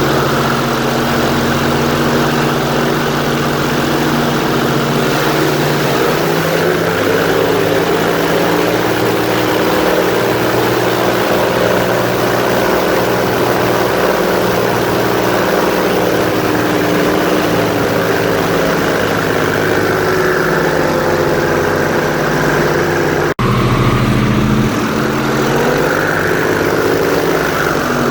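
Airboat's engine and large air propeller running at speed, loud and steady, with small shifts in engine speed. The sound drops out for an instant once, near the end.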